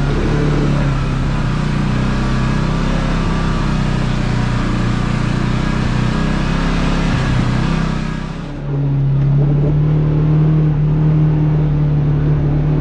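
Kawasaki KRX side-by-side's engine running steadily under way, with a broad hiss over it. About eight and a half seconds in the sound changes abruptly: the hiss drops away and the engine note turns steadier and stronger.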